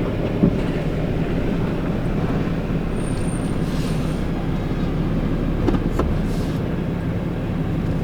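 Ram pickup's Cummins inline-six turbo-diesel running at low speed, heard from inside the cab as a steady low hum, with a few brief knocks and rattles about half a second in and again around six seconds.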